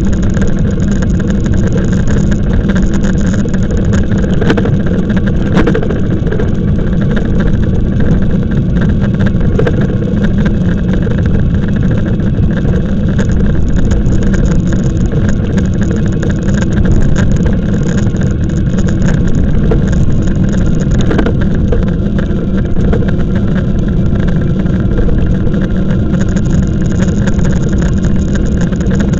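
Loud, steady wind and road rumble on the camera microphone while riding an e-bike.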